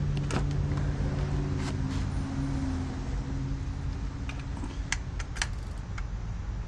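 Scattered sharp clicks and clacks from a folding electric trike's frame being handled and its folding joint latched, over a steady low hum.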